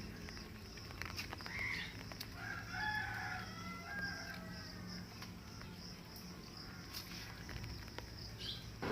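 An animal calling: a long pitched call about two to three and a half seconds in, with a shorter call before it and another near the end.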